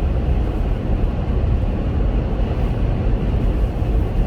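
Steady low rumble of road and engine noise inside a Chevrolet Captiva's cabin while driving.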